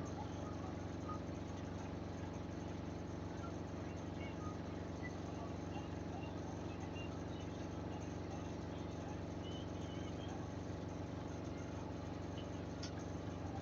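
Samsung washing machine's drum and motor running steadily through the final spin with a load of bedding, a constant hum with no change in pitch.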